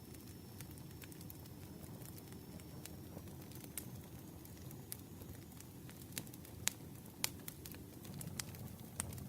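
Campfire crackling: a steady low rumble of burning with scattered sharp pops and snaps, the strongest of them in the second half.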